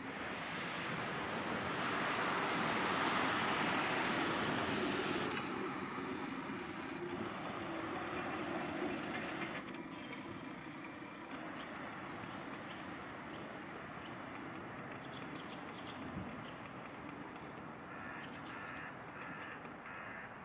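Tram running along its rails, the rumble swelling to its loudest a few seconds in and then slowly fading away. A few faint high chirps come near the end.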